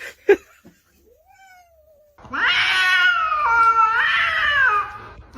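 A cat giving one long, wavering yowl of about two and a half seconds, starting about two seconds in, its pitch bending and stepping as it goes. A sharp click comes just before it, near the start.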